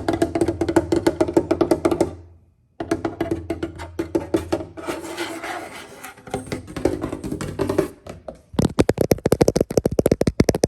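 Fast ASMR tapping on hard, hollow objects that ring briefly with each tap, in quick runs broken by two short pauses. About eight and a half seconds in it moves to another object with a deeper, fuller tap.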